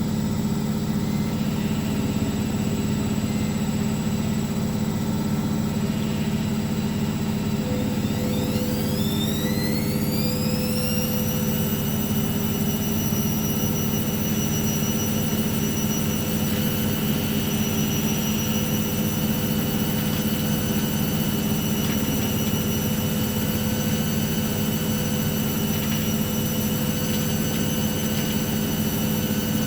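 Hoover washing machine running with a steady hum. About eight seconds in, the motor's whine rises over a few seconds and then holds at a steady high pitch as the drum speeds up to spin.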